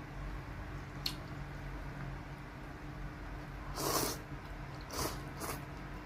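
A person eating bún riêu noodle soup close to the microphone: a small click about a second in, then a few short, wet mouth sounds of eating, the loudest about four seconds in, over a low steady hum.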